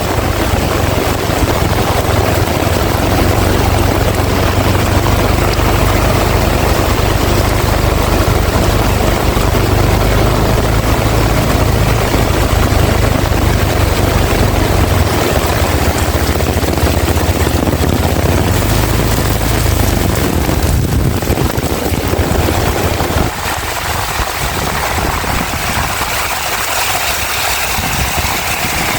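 Heavy rain pouring with strong wind rumbling on the microphone. The deep wind rumble drops away near the end, leaving mostly the hiss of the rain.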